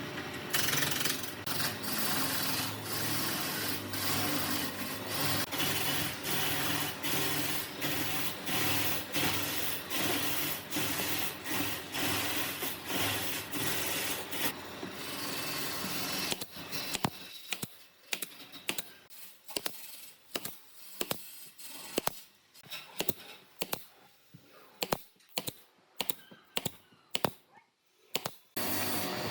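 Workshop tool sounds: a power tool runs with a steady hum under rapid sharp knocks for about the first seventeen seconds, then stops, leaving irregular sharp knocks and taps on wood.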